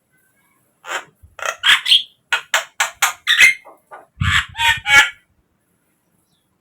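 Javan myna (jalak kebo) giving a rapid run of about a dozen short, harsh, chattering calls over some four seconds, then falling silent.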